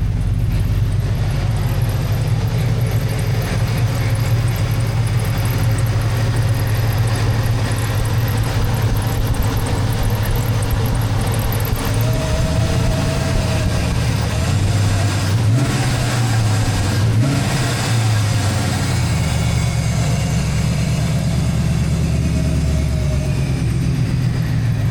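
Pickup truck engine running steadily. Its note rises and falls for a few seconds about halfway through.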